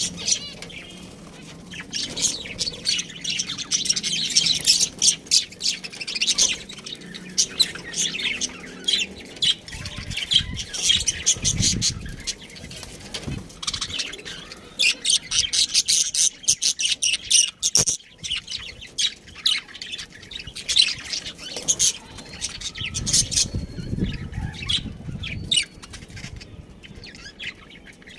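Pet budgerigar chattering in bouts of rapid high chirps, with short pauses between bouts.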